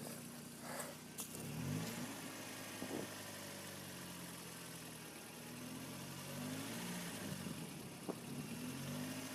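Mitsubishi Lancer 1.8 4G93 GDI four-cylinder engine running hot, idling with a few brief rises in revs, and the hydraulic lifters knocking even at operating temperature.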